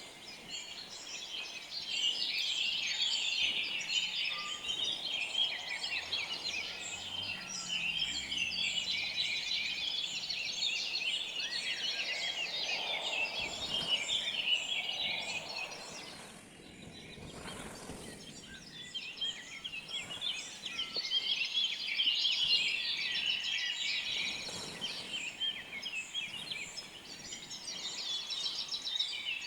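Many birds chirping and calling at once in a dense chorus of high twitters. It thins out and drops away briefly about halfway through, then builds back up.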